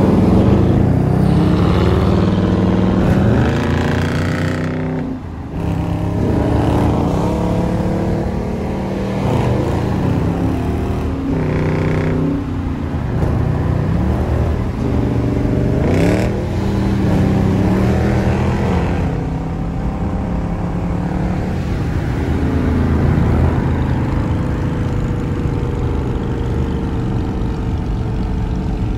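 Dodge Charger R/T's 5.7-litre Hemi V8 accelerating hard through the gears, its pitch climbing and falling back at each upshift, several times over.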